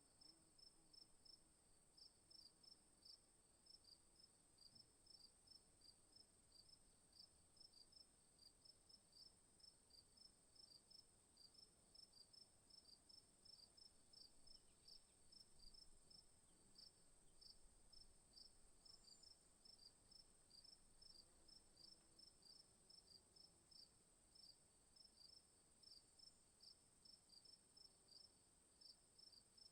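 Faint insect chorus: crickets chirping at an even pulse of a few chirps a second, over a steady high-pitched insect drone.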